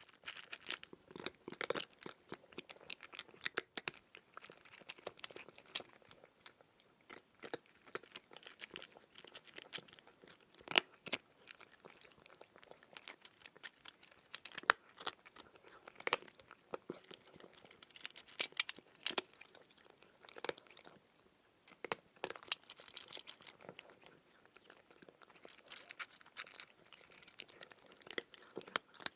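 A cat eating dry kibble: irregular crunching and chewing, with sharp crunches at uneven intervals between quieter chewing.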